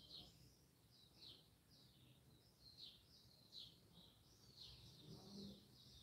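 Faint bird chirping: short, high, falling chirps, one or two a second, over near silence.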